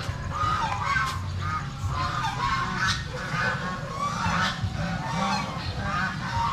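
Geese honking repeatedly, short calls coming about once or twice a second, several birds overlapping.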